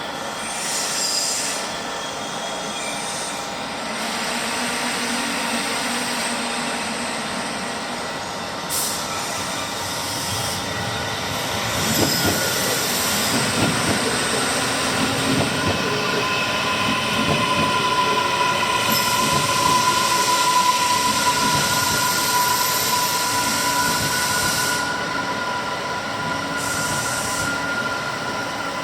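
Passenger train pulling into the station, its running noise building. About halfway through, a steady high-pitched squeal from the wheels sets in and lasts to the end.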